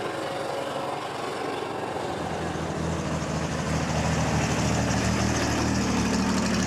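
An old vehicle's engine running steadily, growing louder about two seconds in.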